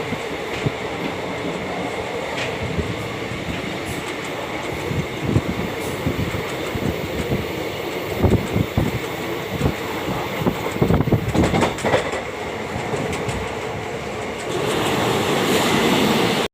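Passenger train running on the line, with continuous running noise and irregular knocks as the wheels pass over rail joints. Near the end the noise grows louder and steadier.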